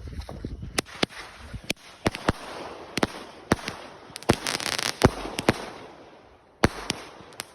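200-gram firework cake (King Bird Fireworks 'Laughter') firing its shots: a string of sharp reports, roughly one every half second, with a hissing haze between them and a short lull before the last few.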